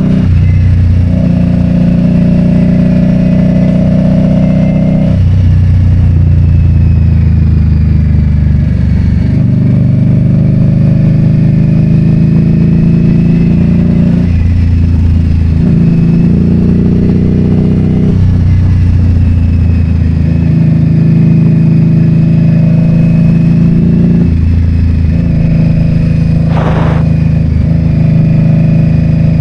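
Harley-Davidson Road King's V-twin engine running as the motorcycle is ridden, its note stepping up and down every few seconds with throttle and gear changes. A brief sharper sound cuts in near the end.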